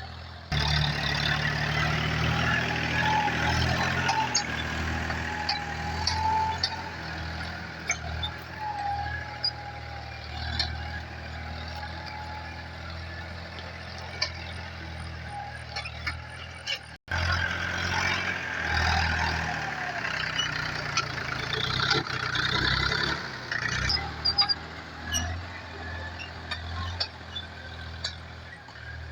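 Tractor engine running steadily under load while tilling, with scattered clanks and ticks. A thin wavering whine rides over it for several seconds early on.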